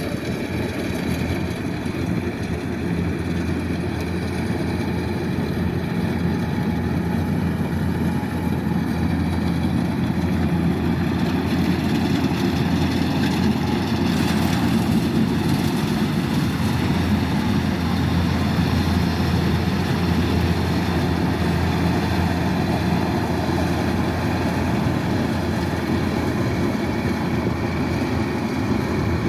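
Kubota DC-108X combine harvester's diesel engine running steadily, a little louder after the first few seconds.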